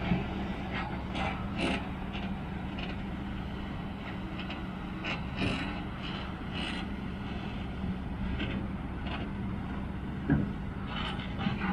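Mountain bike rolling along a track: steady tyre and wind noise, with short rattles and clicks from the bike now and then, a louder knock about ten seconds in.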